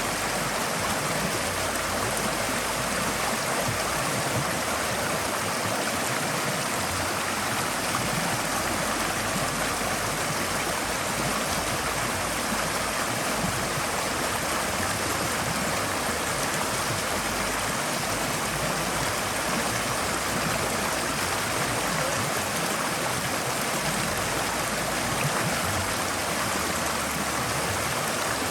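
Forest stream flowing steadily over stones, a constant rushing and gurgling of water.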